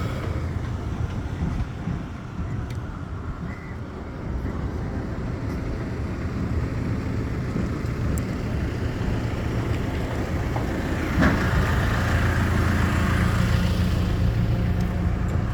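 A motor vehicle's engine running over a low rumble, growing louder about eleven seconds in.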